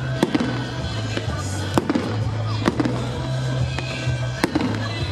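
Fireworks going off, with sharp bangs every second or so and the loudest about a quarter second, 1.8 s, 2.7 s and 4.5 s in, over music with a steady bass line.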